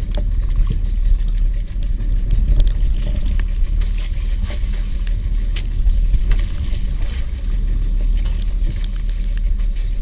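Small fishing boat's engine running with a steady low hum, with scattered sharp taps and clicks over it.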